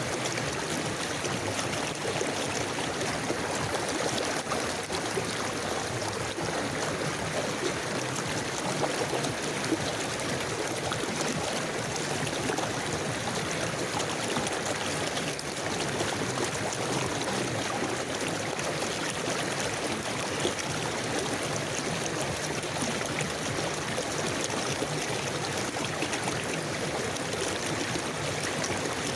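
A river or forest stream flowing steadily, an even rush and babble of water.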